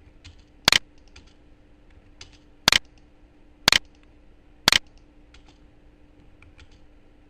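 Four loud, sharp clicks from a computer's input keys or buttons, the last three about a second apart, with a few faint clicks between them over a faint steady hum.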